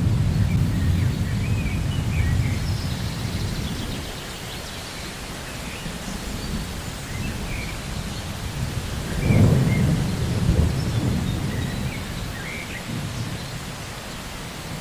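Rain falling steadily with rolling thunder: a low rumble eases off over the first few seconds, then a second thunderclap swells sharply about nine seconds in and rolls away.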